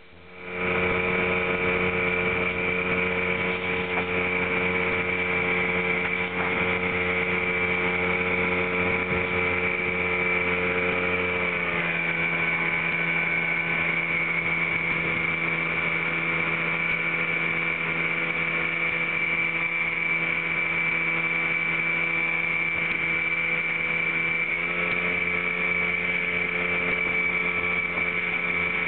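Motorboat engine running steadily under way with a high whine over it. Its pitch steps down slightly about twelve seconds in and comes back up about twenty-five seconds in.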